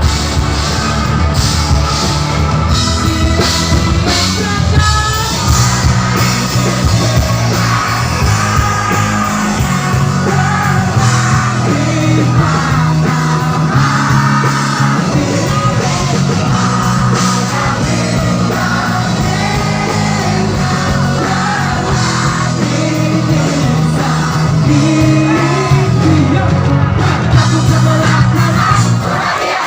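Rock music with a singing voice over a full band, drums and bass playing loud and steady.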